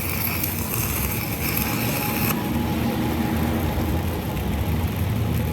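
Workshop machinery running steadily, a low hum under a hiss, with the higher hiss dropping away a little over two seconds in.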